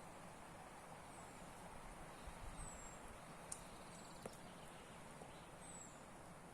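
Quiet forest ambience: a small bird gives a thin, high call that slides downward, four times, spread out. Two soft clicks come in the middle.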